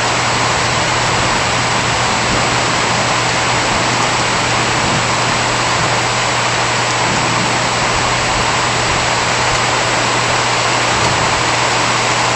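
Steady, moderate rain falling, an even continuous hiss without bursts.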